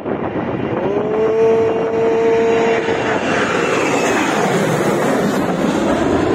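Airliner's engines at takeoff power as the plane passes close on its takeoff run: a loud, continuous roar, with a steady whine above it from about a second in until about three seconds in.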